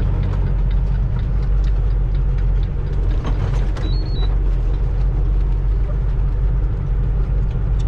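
Semi-truck's diesel engine running at low speed, heard from inside the cab as a steady low rumble. A short high beep sounds about four seconds in.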